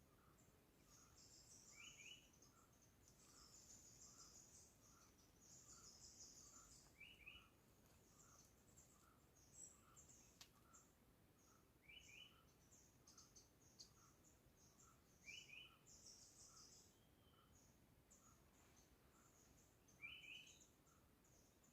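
Forest birds chirping softly: high, fast twittering, with a short two-note call repeating every two to five seconds. Under them runs a faint, even pip about twice a second.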